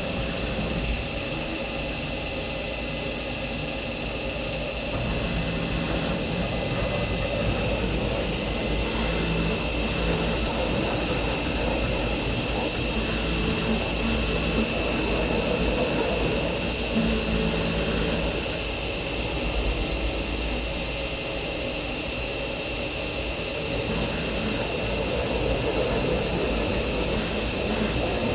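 CNC milling machine cutting slots: a steady high-pitched spindle whine over continuous cutting noise and a low hum, easing slightly in level twice.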